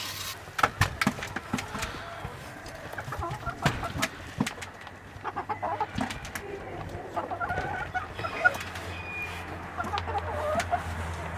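Chickens clucking in short calls several times, among scattered sharp clicks and knocks.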